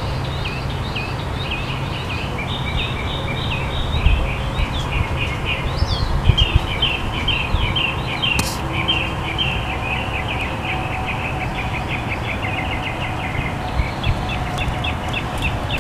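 Birds chirping continuously, many short quick calls overlapping, over a steady low background noise.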